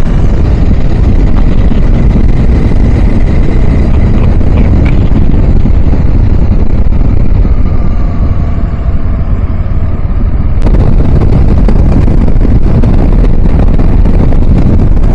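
Wind blasting a motorcycle rider's external mic, covered with foam, a dead cat and a Windslayer cover, at riding speed: a heavy low rumble over the bike's engine and road noise. Faint whines slide down in pitch through the middle, and about ten and a half seconds in the hiss suddenly turns brighter.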